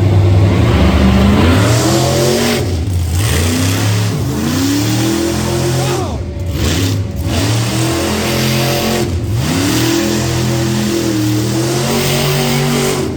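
Monster truck engine revving hard during a donuts run. Its pitch repeatedly climbs and falls, with several short throttle lifts where it drops away and winds back up.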